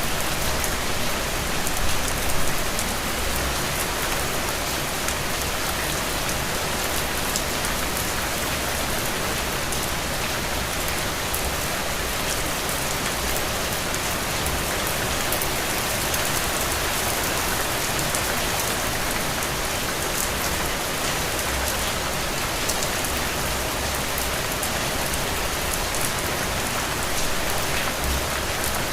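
Heavy rain falling steadily, a dense even hiss with fine patter of individual drops. Brief low rumbles swell about two seconds in and again near the end.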